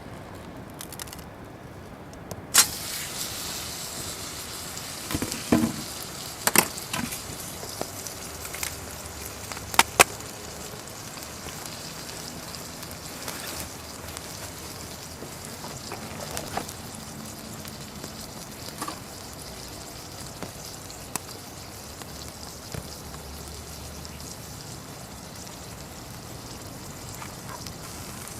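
Wood campfire crackling, with a steady hiss and scattered sharp pops that are loudest in the first ten seconds. The sound starts abruptly a couple of seconds in.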